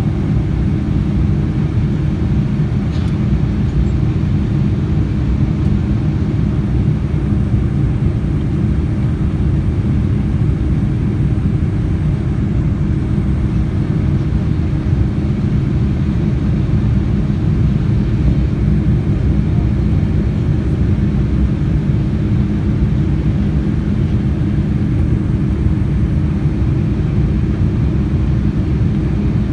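Steady low roar inside the passenger cabin of a Boeing 787-9 Dreamliner: engine and airflow noise holding an even level, with a faint steady hum under it.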